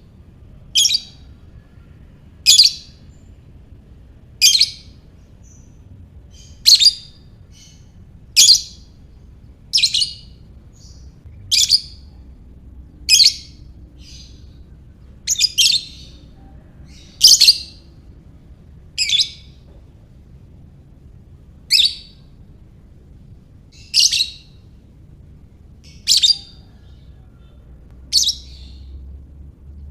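Lovebird giving short, sharp, high-pitched single calls, one about every two seconds.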